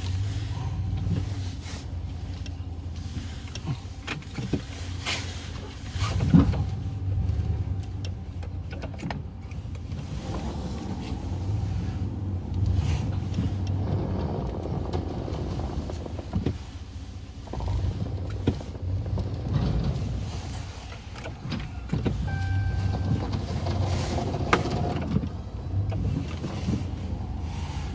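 Plow-equipped pickup truck driving: a steady low engine hum that swells and eases, with a few sharp knocks and rattles, the loudest about six seconds in.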